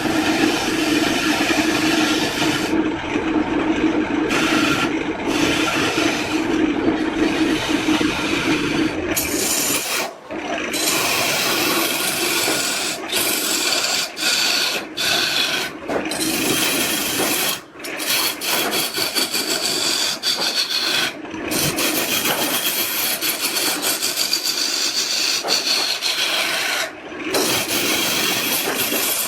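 A tool rubbing and rasping on wood, like filing or sanding, running on with a few short breaks. For the first nine seconds or so a steady hum runs under it.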